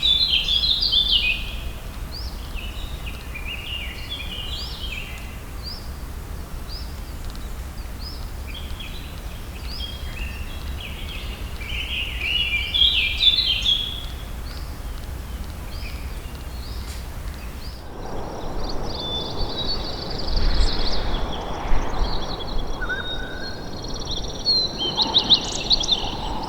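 Songbirds singing, with repeated short chirping phrases and trills, over a steady low rumble. About 18 s in, the background changes abruptly to a broader hiss with more scattered, higher chirps.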